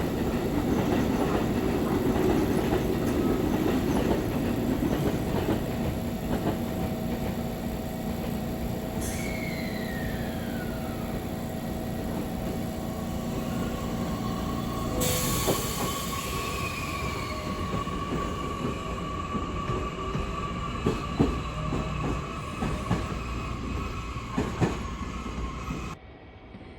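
Train running on rails, with a whine that falls in pitch about nine seconds in and a steady high squeal from about fifteen seconds on, with a few sharp clicks later. The sound drops away suddenly near the end.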